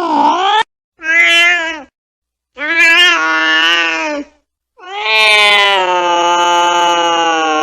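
Angry cat yowling: a string of drawn-out, wavering caterwauls, with dead silence between them. The end of one call, two shorter ones, then a long held wail starting about five seconds in.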